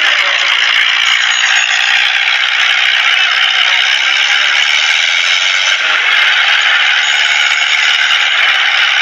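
Loud, steady rattling din of tractors running flat out in a tractor pulling contest, shifting slightly about six seconds in.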